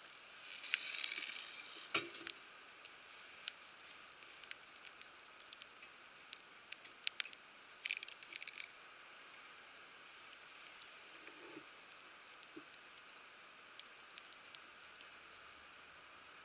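Wood fire crackling, with scattered sharp pops and two brief hisses, one about a second in and one near the middle.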